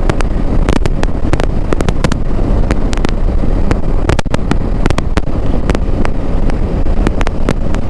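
Heavy wind blast rumbling on the microphone of a GoPro Hero 11 with Media Mod on a motorcycle at about 105 km/h, broken by irregular sharp crackling pops several times a second. The rider takes this crackle for an artefact of the GoPro's wind-noise reduction set to auto at high speed.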